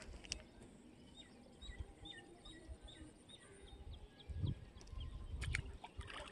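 A small bird calling in a quick series of short chirps, about three a second, over low rumbling in the second half. A brief splash near the end as a hooked fish breaks the surface.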